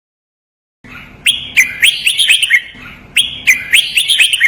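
Red-whiskered bulbul singing two quick phrases of loud, sharp whistled notes, the second repeating the first. The song starts about a second in and is played as a training song for caged bulbuls.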